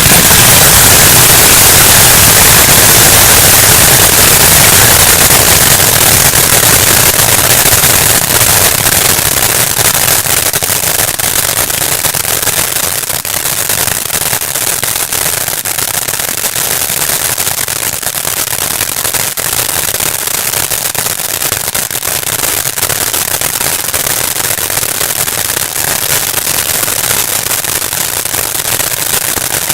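'Love Me Long Time' firework going off in a dense, unbroken rattle of rapid firecracker bangs, loudest over the first several seconds and easing slightly after.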